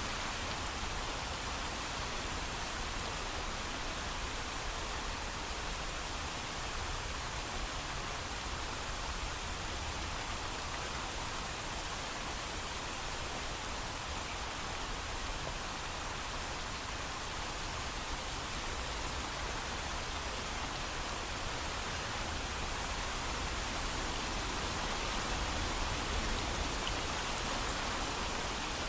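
Steady heavy rainfall, an even hiss with a low rumble underneath and no thunder.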